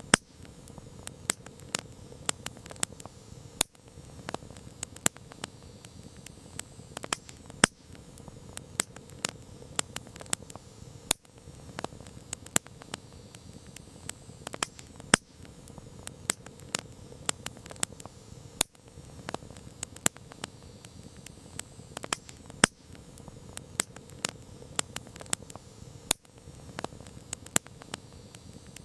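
Campfire crackling: irregular sharp snaps and pops from the burning wood, several a second, over a steady low rush of the flames.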